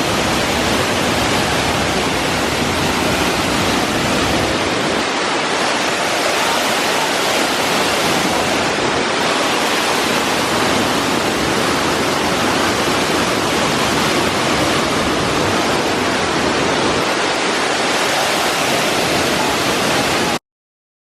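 Waterfall pouring, a steady loud rush of falling water that cuts off suddenly near the end.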